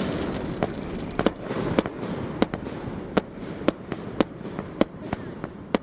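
Fireworks going off: a string of sharp bangs roughly every half second, over a crackling hiss that fades over the first two seconds.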